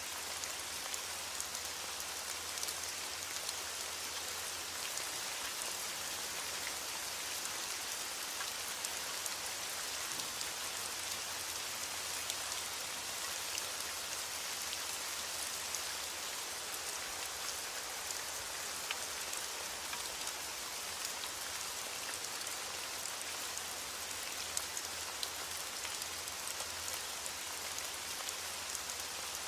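Heavy rain pattering steadily on a window pane, an even hiss with scattered small ticks of drops.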